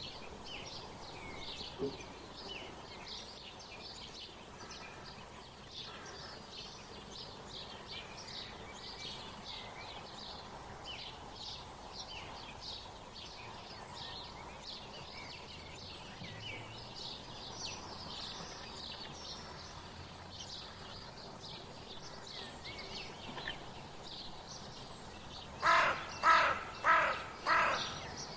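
Wild birds chirping and twittering continuously in a busy chorus of short, high notes. Near the end a louder, harsher bird call comes four times in quick succession, about two a second.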